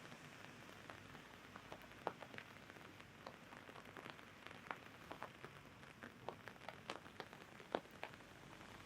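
Raindrops tapping on an umbrella canopy in irregular single ticks, more frequent from about two seconds in, over a faint steady hiss of falling rain.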